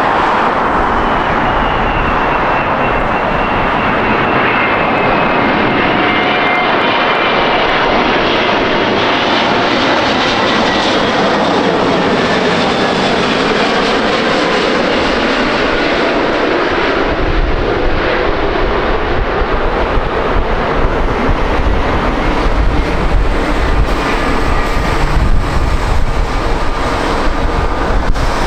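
Jet airliner engines close by, a dense roar with a high whine over it; about halfway through a deep rumble builds and stays strong.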